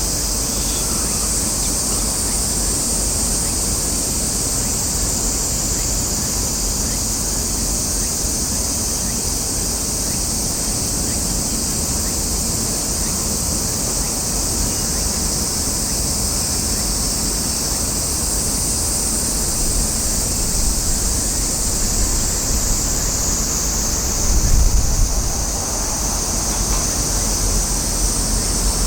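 Outdoor ambience: wind buffeting the microphone as a low rumble, with a louder gust about 24 seconds in, over a steady high hiss.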